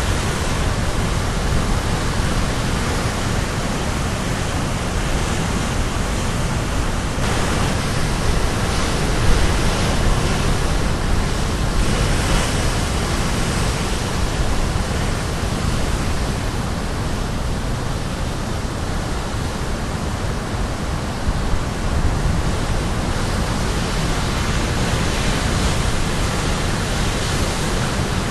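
Caribbean Sea waves crashing on the shore: a continuous wash of surf that swells as a wave breaks, about seven seconds in and again about twelve seconds in.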